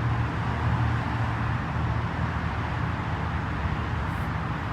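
Strong wind buffeting the microphone: a steady low rumble under a wide hiss.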